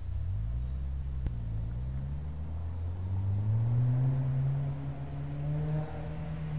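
Honda Torneo CL1's H22A four-cylinder engine accelerating on the approach, its note climbing steadily and growing louder, with a short dip in level near the end.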